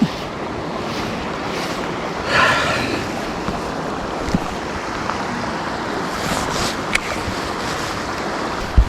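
Steady rush of flowing stream water, with a short dull thump near the end.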